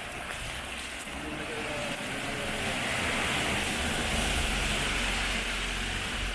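A vehicle passing on a rain-wet street: the tyre hiss swells over a few seconds and eases near the end, with a low rumble as it goes by.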